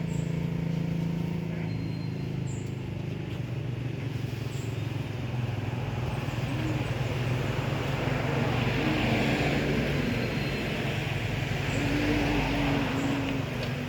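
Motor vehicle engine running steadily with road noise, and a few short higher tones about two-thirds of the way through.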